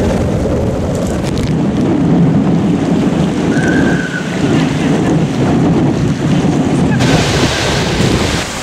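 Wind buffeting the microphone in a loud, steady rumble, with a brief high squeak about three and a half seconds in and more hiss near the end.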